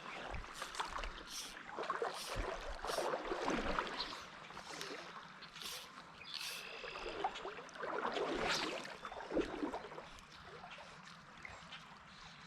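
Stream water splashing and gurgling in a run of irregular swishes, with a brief high chirp about six seconds in.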